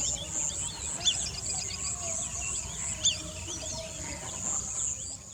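Outdoor wildlife sound of birds giving many short, curving chirps over a high, pulsing insect trill, with a low rumble underneath.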